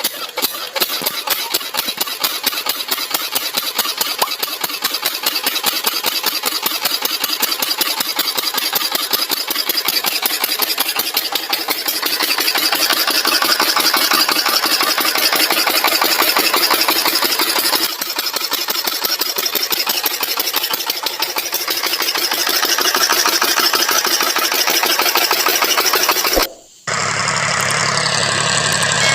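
A small motor runs steadily with a fast, dense clatter, louder from about twelve seconds in. It breaks off briefly near the end.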